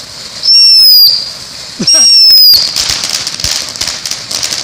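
Two loud, shrill firework whistles, each about half a second long and falling slightly in pitch, followed by the steady crackling hiss of firework fountains spraying.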